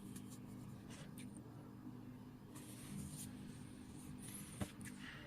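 Faint taps and scrapes of fingers handling a repaired car navigation head unit while its touch screen and SD card are tested, with one sharper click near the end, over a steady low hum.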